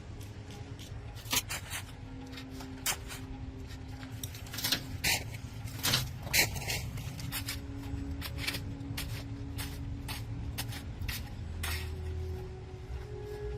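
Repeated clinks, taps and scrapes of small hard parts and tools being handled during a kettle repair, over a steady low hum.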